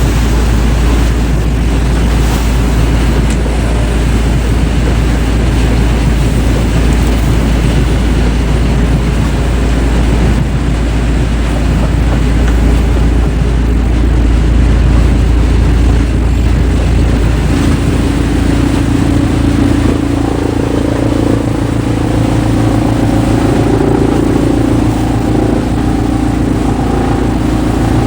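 Heavy wood-processing machinery, such as a large log shredder or chipper, running loudly and steadily with a deep rumble. A little past halfway the rumble eases and a steady engine hum with a clear pitch comes through.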